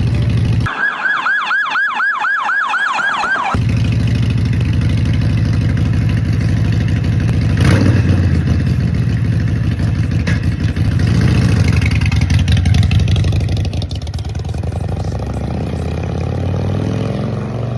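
Harley-Davidson chopper's V-twin engine running shortly after a cold start, with louder stretches around eight seconds and again around eleven to thirteen seconds. About a second in, the engine sound drops out for roughly three seconds. During that gap a high warbling siren-like tone sweeps downward about four times a second.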